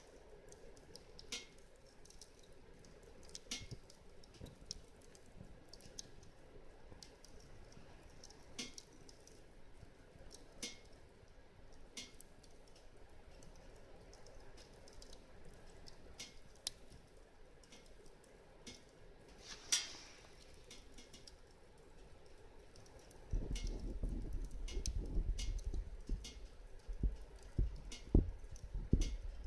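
Wood fire crackling softly, with scattered sharp pops and snaps. From about two-thirds of the way in, a louder low rumble with irregular thumps comes in over it.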